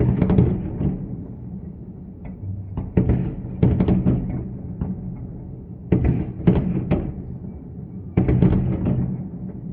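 Fireworks shells bursting overhead: a series of heavy booms at irregular intervals, each rolling off in an echo, some in quick pairs.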